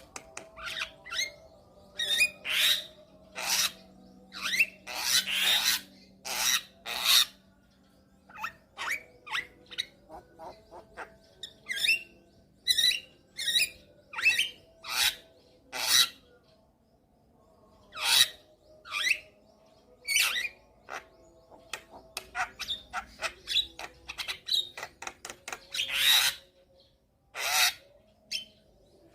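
Javan myna (jalak kebo) singing a busy, varied song of harsh rasping calls mixed with quick chirps, in irregular bursts with short pauses.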